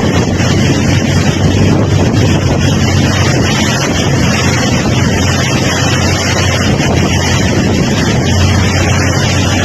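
Wind buffeting the microphone over rushing floodwater, with a steady low rumble underneath.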